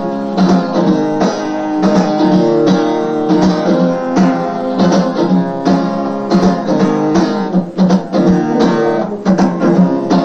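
Instrumental break of a folk song: acoustic guitar strumming chords in a steady rhythm, with no singing.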